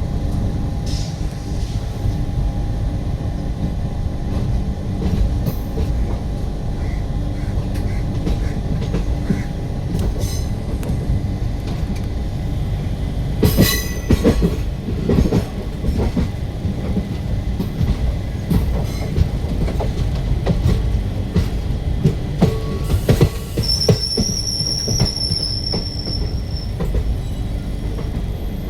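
Passenger express train running on rails: a steady low rumble of the coaches, a burst of sharp clanks about halfway through, and a high wheel squeal lasting about three seconds near the end.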